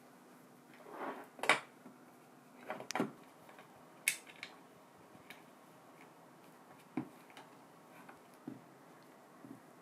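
Scattered light clicks and knocks of small parts and tools being handled at a workbench, a dozen or so irregular taps with the sharpest about a second and a half, three and four seconds in.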